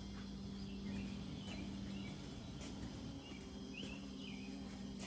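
Quiet outdoor ambience: a few faint bird chirps over a steady low hum.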